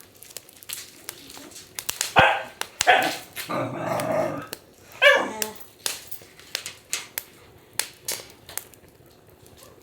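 Wood fire crackling and popping in a fire pit, with a dog barking a few times between about two and five and a half seconds in.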